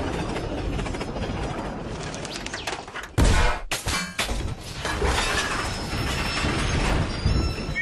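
Animated train-crash sound effects: continuous crashing and smashing with breaking and clanging, and a heavy impact about three seconds in.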